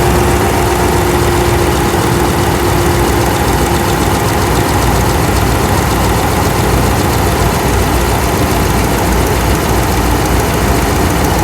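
A 5.7 L Hemi V8 idling with its driver's-side valve cover off, the exposed valve train ticking. The owner places the tick at the front rocker arm on the driver's side and takes it for a valve-train fault.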